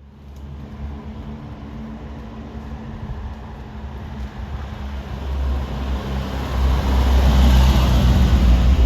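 A 1977 MGB Roadster's 1,950cc Stage 2 four-cylinder engine running steadily, growing louder over the last few seconds.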